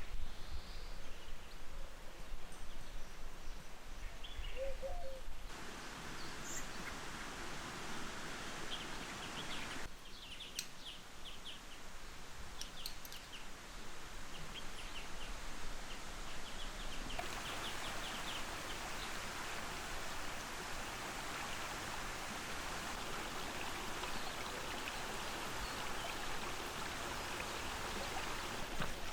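Birds chirping repeatedly over a steady outdoor hiss, with the background changing abruptly a few times.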